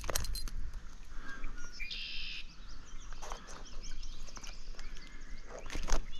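A bird gives a short call about two seconds in, over a steady low background noise. Scattered sharp clicks and taps run throughout, the strongest at the start and just before the end.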